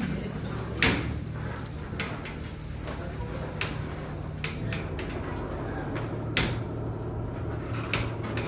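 Sharp knocks and clicks, about seven, scattered at irregular intervals over a steady low hum.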